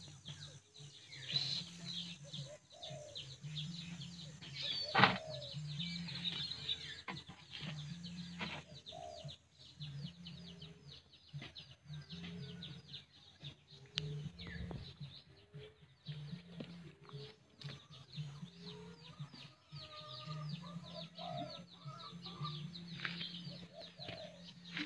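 Birds chirping and calling throughout, with short lower calls repeating among the high chirps, and a single sharp click about five seconds in.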